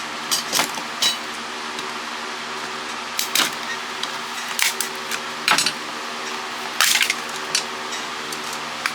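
Hard plastic cordless-phone parts clicking and clattering as they are handled and set down during disassembly, in irregular sharp knocks a second or two apart, over a steady background hum.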